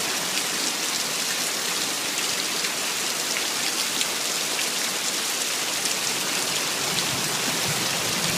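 Heavy rain falling steadily: a dense, even hiss with scattered ticks of individual drops hitting.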